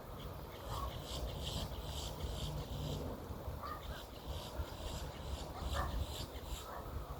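A woodpecker calling: a run of short high notes, about four or five a second, in two bouts separated by a brief pause about three seconds in, over a steady low rumble.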